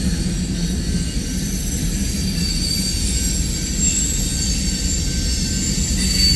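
Empty coal train's freight cars rolling past with a steady low rumble, with thin high-pitched squealing from the steel wheels on the rails.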